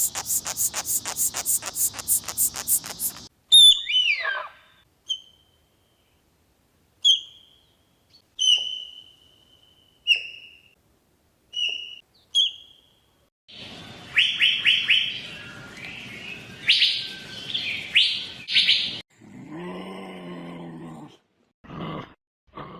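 A run of animal calls, mostly birds: a fast trill of clicks for about three seconds, then single high chirps every second or two, then a flurry of louder, busier chirps. Near the end, a few lower-pitched calls from a different animal.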